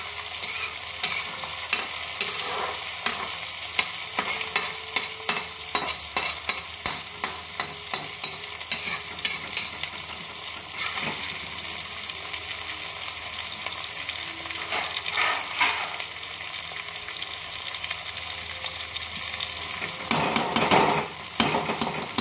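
Chopped onions, green chillies and tomatoes sizzling in mustard oil in a kadhai, with a steel spatula scraping and clicking against the pan as they are stirred. The scraping grows louder near the end.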